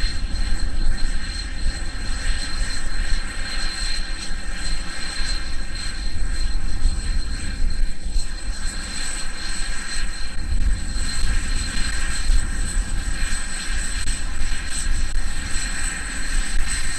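Jet aircraft engines running steadily with a high whine, while gusty wind buffets the microphone with a low rumble.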